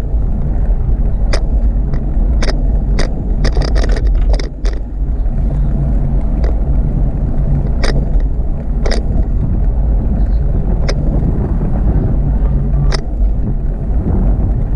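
Wind rumbling loudly on the microphone of a moving bicycle, with irregular sharp clicks and rattles from the bike, several close together in the first few seconds and then a few scattered ones.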